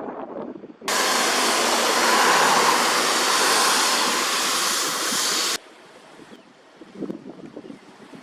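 Strong wind blasting the microphone: gusty rumble, then a loud, even roar of wind noise that starts abruptly about a second in and cuts off abruptly about five and a half seconds in, leaving lighter gusts.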